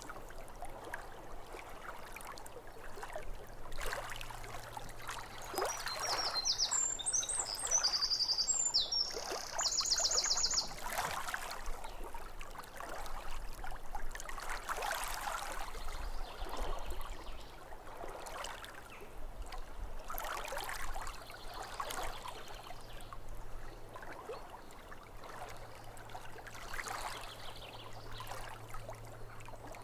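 Small waves lapping at a lake shore in soft, irregular washes. A songbird sings a short phrase of chirps, ending in a fast trill, from about six to eleven seconds in.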